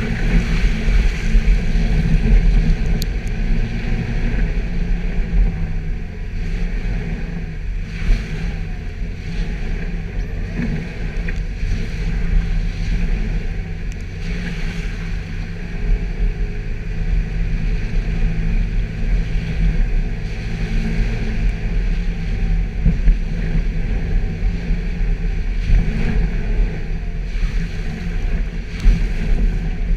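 Suzuki Jimny driving off-road: the engine running steadily under a heavy low rumble of drivetrain and terrain noise, with a few short knocks and clunks from the bumpy ground.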